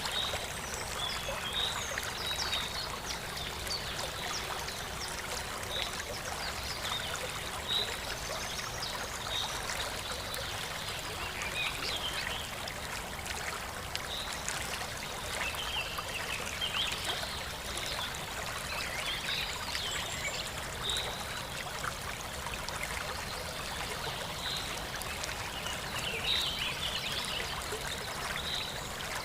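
Steady trickling, running water, with short high chirps scattered through it.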